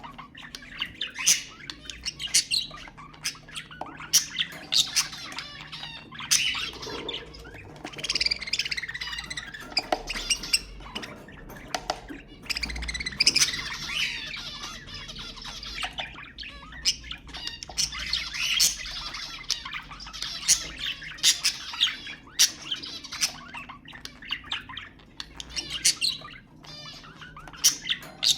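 Budgerigars chattering: rapid warbling, chirps and sharp squawks overlapping throughout.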